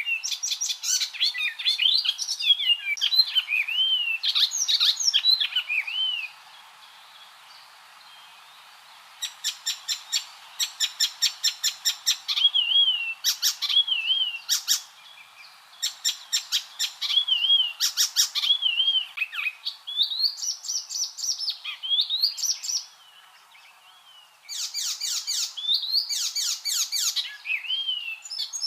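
Icterine warbler singing: fast rattling runs of repeated notes alternating with looping whistled phrases that slide up and down, in song bouts broken by two short pauses, about six seconds in and again near twenty-three seconds.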